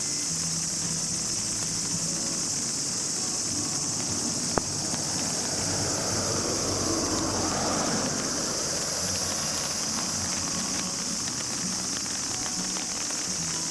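Steady, high-pitched chorus of crickets and other insects. About halfway through, a rushing noise swells and fades, and there is a single sharp click shortly before it.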